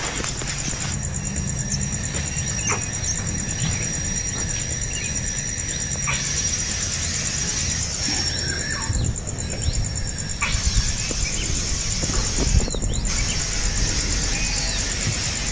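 Outdoor natural ambience: short bird chirps now and then over a steady, rapidly pulsing high-pitched drone and a low rumble.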